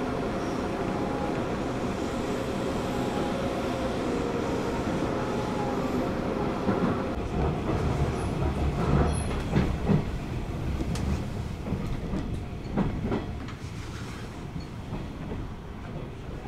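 Hanshin electric train running, heard from inside the passenger car: a steady rumble with a faint motor whine, then from about seven seconds in a run of clacks from the wheels over rail joints, growing quieter toward the end.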